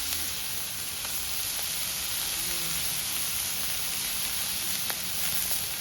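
Wood campfire burning with a steady hiss and a few faint crackling pops.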